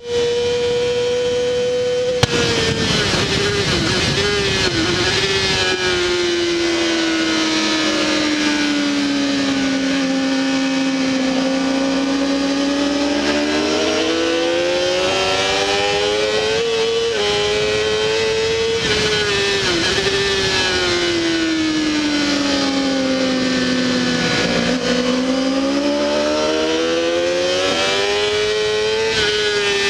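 Honda CBR600RR inline-four engine heard onboard at race pace, with wind rush over it. The engine note holds high for about two seconds, then a click and the revs sink slowly, climb back, and fall and rise twice more.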